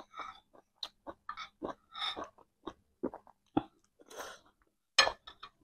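Close-up chewing of chow mein noodles: an irregular string of short, wet mouth smacks and clicks, with brief noisier rushes about four and five seconds in.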